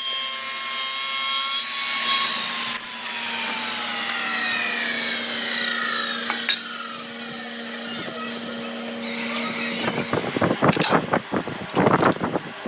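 A woodworking power tool whines at a steady high pitch, then winds down in pitch after being switched off. Near the end come fast, irregular scraping strokes on wood.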